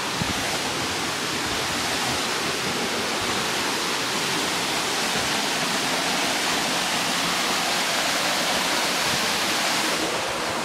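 Waterfall crashing steadily into its plunge pool, an even rushing roar of falling water heard up close.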